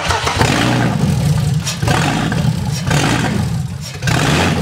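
Newly fitted inline-six petrol engine turning over on the starter motor without catching, a steady pulsing churn with a brief dip about four seconds in.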